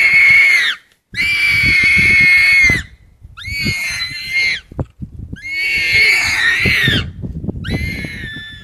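Warthog squealing in distress while being caught by a leopard: five long, loud, high-pitched squeals, each one to two seconds long, with short breaks between them.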